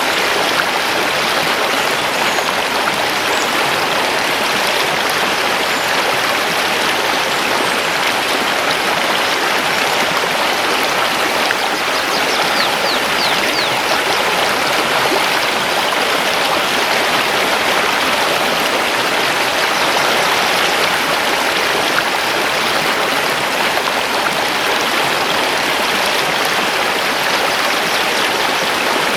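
A mountain river rushing steadily over stones, an even, unbroken water sound, with a few faint high bird calls about twelve seconds in.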